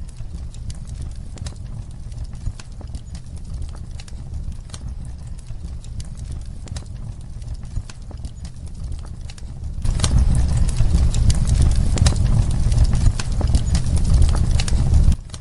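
Fireplace crackling: irregular sharp pops and snaps over a steady low rumble. It grows louder and busier about ten seconds in, then drops back abruptly just before the end.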